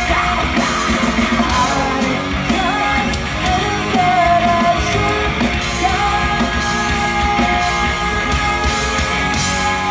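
Live rock band playing the close of a song: vocals and yells over electric guitars, bass and drums, then a long held chord from about halfway through.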